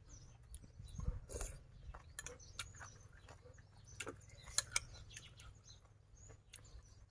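Chewing and small wet mouth clicks from eating a seaweed salad, as short irregular crackles, with birds chirping faintly in the background.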